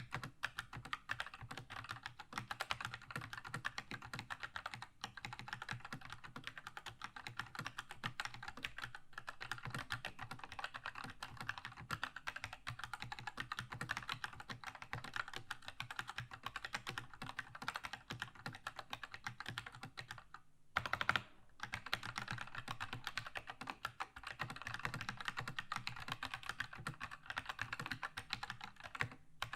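Keychron K2 mechanical keyboard with red linear switches being typed on in a fast, continuous stream of key clicks. Its one short pause about two-thirds of the way through is followed by a brief, louder clatter.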